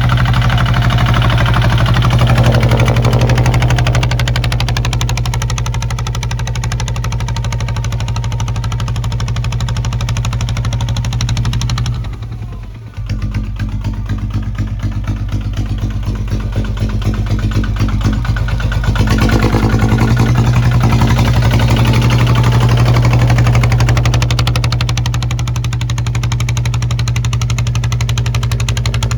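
Kubota ZT155 single-cylinder diesel engine running steadily. About twelve seconds in it briefly drops in level, then picks up again, and runs somewhat louder from about nineteen seconds in.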